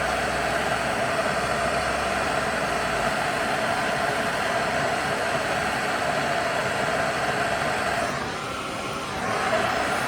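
Blowtorch flame hissing steadily as it heats a seized brass furnace pilot-burner fitting to loosen its threads. The sound drops briefly about eight seconds in, then comes back.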